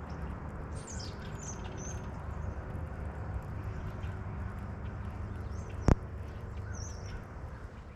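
Birds chirping in short, high calls several times over a steady low background noise, with one sharp knock about six seconds in.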